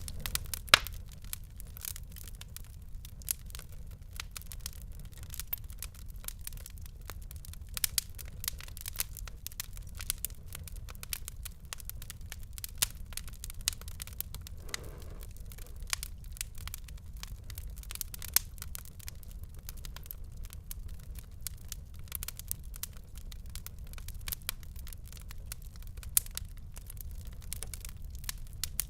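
Wood fire crackling: irregular sharp pops and snaps over a steady low rumble of the flames, with one loud pop about a second in.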